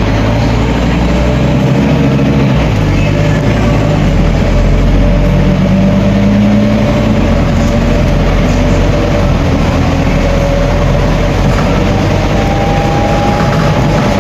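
Scania N270UD OmniDekka double-decker bus running under way, its diesel engine steady and loud, the engine note shifting and rising as it pulls, with a faint rising whine near the end.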